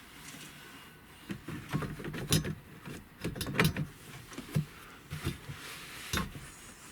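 Plastic center console trim piece being handled and pressed into place in a pickup's cab: a run of irregular clicks, knocks and rattles starting about a second in.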